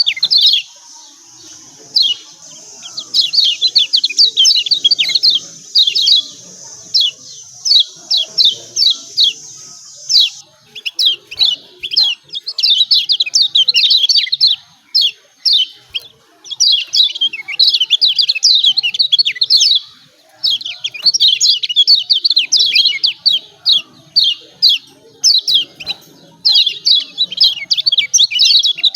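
Kecial kuning (Lombok white-eye) calling its rapid, high 'ciak ciak' chirps in excited runs of one to three seconds with brief pauses between them, the lure call used to goad a quiet kecial into singing.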